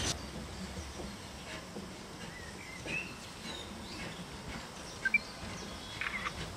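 Small birds chirping over a faint, steady outdoor background, with two sharp notes about five seconds in and a short run of chirps near the end.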